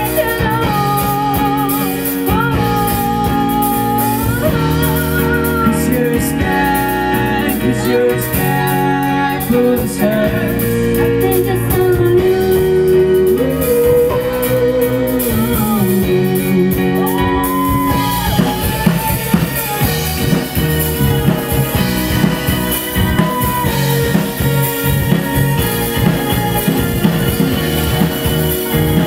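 Live rock band playing: a bending lead melody over guitar, bass and drums, with the drums coming to the fore in a denser, driving section about two-thirds of the way through.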